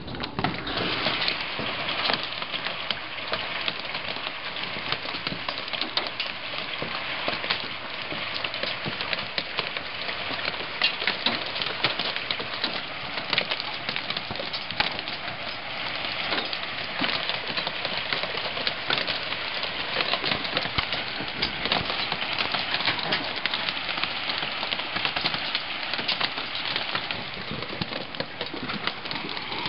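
Hailstones pelting down in a dense, steady clatter of countless small impacts.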